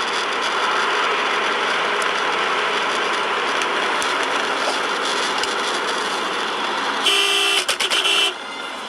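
Steady driving noise of a car on the road, then a car horn honks in a few short blasts near the end.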